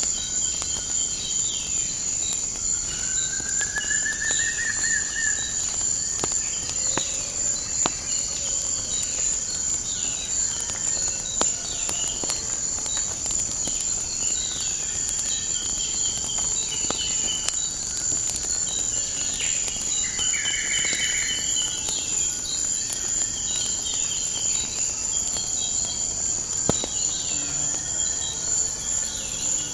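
A steady, high-pitched insect chorus, likely crickets, with birds chirping and trilling over it, and scattered sharp pops from a crackling wood fire.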